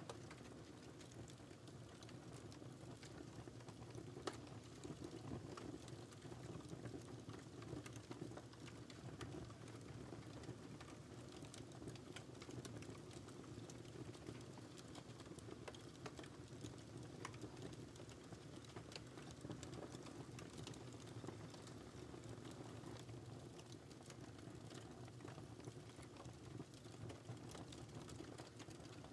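Wood fire crackling faintly: a low steady hiss of burning with scattered small pops and snaps, one a little sharper about four seconds in.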